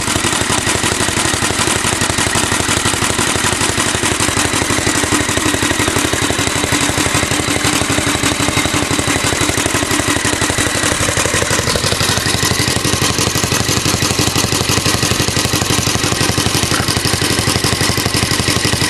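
Alpha De Laval tank-cooled stationary gas engine running steadily on its governor, belt-driving a Century generator under a 150-watt load.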